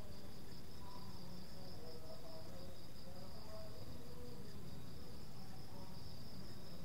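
Crickets chirring in a steady, high, even trill that pulses slightly, over a low background rumble.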